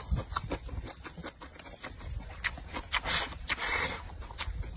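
Close-up eating sounds of a man chewing braised pork: many quick wet smacking clicks of the mouth, with two short hissing sounds a little after three seconds in.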